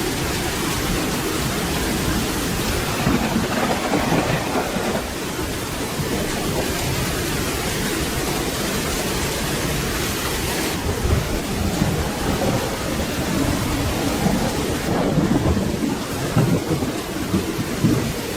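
Steady rain with low rolling thunder rumbles, swelling about four seconds in and again through the second half.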